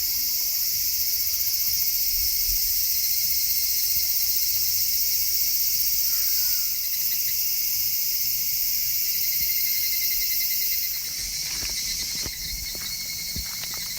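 Dense, steady chorus of insects shrilling. From about eleven seconds in, the chorus dips slightly and a few short clicks and knocks sound under it.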